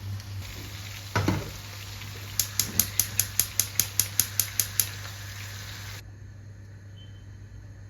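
Kitchen utensil clicking against a pot or bowl in quick, even strokes, about five a second, after a single knock; a steady background hiss cuts off suddenly near the end.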